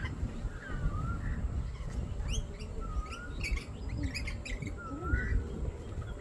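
Parrots calling: short swooping whistles, with clusters of quick sharp chirps about halfway through.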